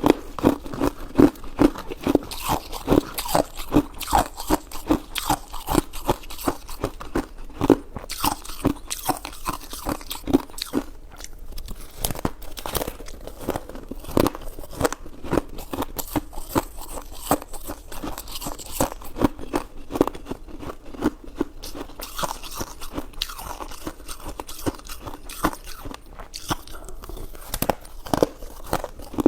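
Close-miked chewing: a steady run of quick, wet mouth clicks and smacks, several a second, as someone eats a soft, chewy food.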